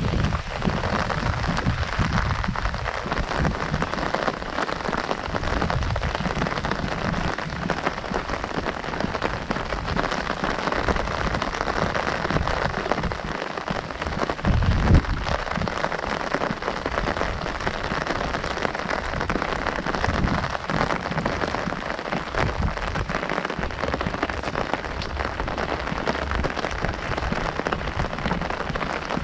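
Heavy rain drumming steadily on an umbrella canopy, with a brief louder thump about fifteen seconds in.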